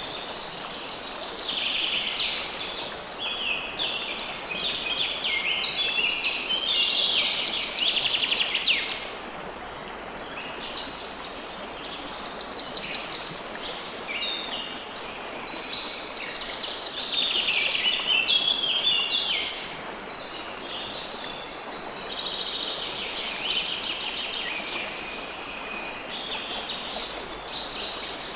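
Songbirds singing in dense, rapid trilling phrases over the steady rush of flowing river water. The birdsong swells louder in two long bouts, in the first half and around the middle.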